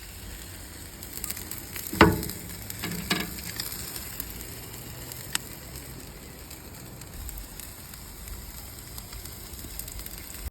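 Chicken pieces sizzling steadily on a hot barbecue grill, with a loud clunk about two seconds in and a few light clicks just after.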